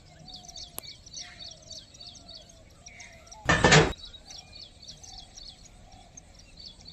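Small birds chirping over and over in the background, with one short, loud rush of noise about halfway through.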